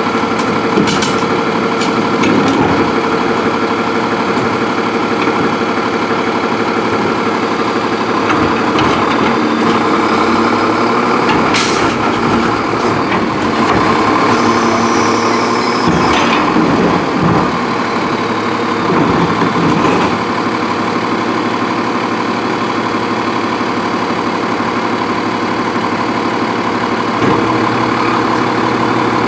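Freightliner Condor garbage truck with an Amrep MSL side-loader body running, its engine steady at first, rising and falling for a stretch in the middle, with one sharp clank partway through.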